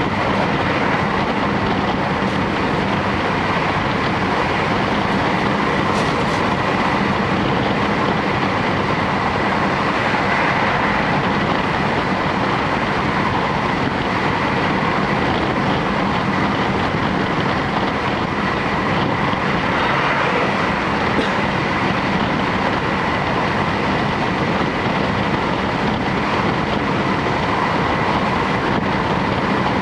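Series 711 electric train running at speed, heard from inside the passenger car: a steady rumble of wheels on rail with an even hum, and a few faint clicks from the track.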